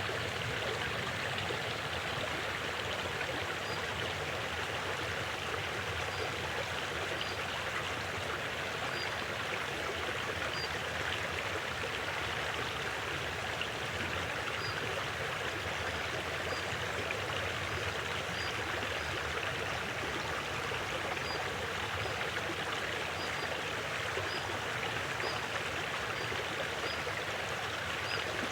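River water flowing gently: a steady, even rush of water with no breaks.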